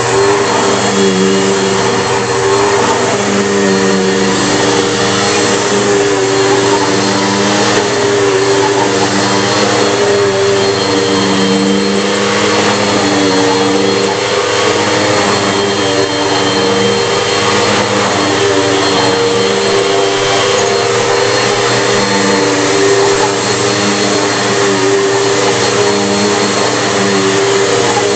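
A Bissell PowerForce Bagless 6582 upright vacuum cleaner running steadily while vacuuming. Its low hum swells and fades every second or so.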